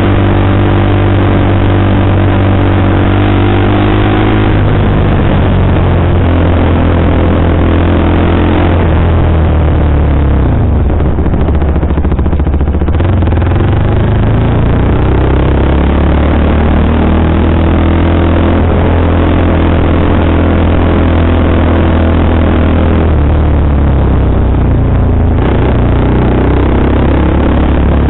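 KTM sport motorcycle engine running on its Powertronic ECU map while riding, loud. The engine note holds steady for stretches, then its pitch drops and rises again about ten seconds in and again near the end.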